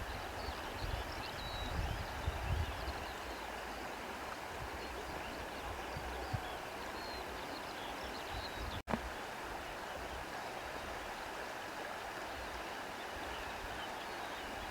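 Steady wind with gusts buffeting the microphone in the first few seconds, and faint bird chirps over it. The sound drops out for an instant about nine seconds in.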